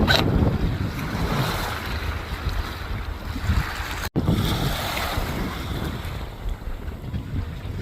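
Strong wind buffeting the microphone over waves washing in a harbour at high tide, with a brief dropout in the sound about four seconds in.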